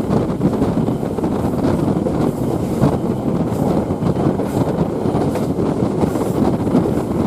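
Passenger train running along the track, heard from aboard: a steady rumble of wheels on the rails with a few faint clicks.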